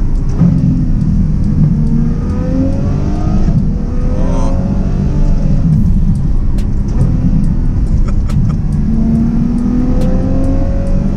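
Ferrari F12 Berlinetta's V12 with a Brooke race exhaust, heard from inside the cabin, pulling up through the revs several times as the car accelerates. A few sharp ticks come in the second half.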